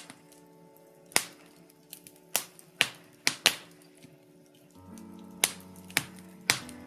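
Birch-log wood fire crackling, with about eight sharp pops scattered through, over soft sustained background music whose chord shifts lower about five seconds in.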